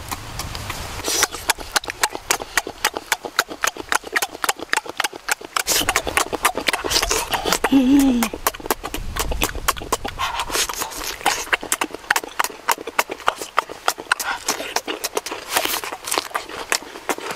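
Close-up crunchy chewing and biting of raw cucumber: a dense run of crisp wet crunches and mouth clicks.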